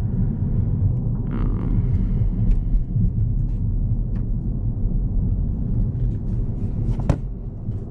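Road and engine rumble inside the cabin of a 2025 Honda Civic while driving, steady and low, with a sharp click about seven seconds in.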